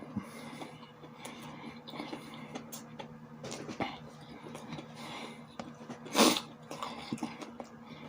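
Close-miked chewing: wet mouth sounds and small clicks from eating sausages with sauerkraut and hot sauce. One short loud burst of breath comes about six seconds in.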